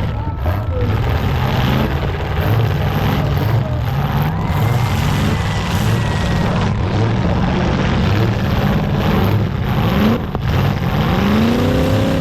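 Several full-size demolition derby cars' engines running and revving hard, the pitch climbing in a strong rev about eleven seconds in.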